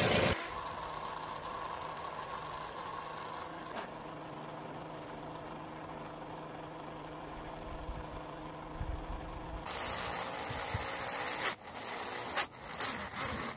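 A small motor running steadily with a faint even hum, with a few sharp clicks in the last few seconds.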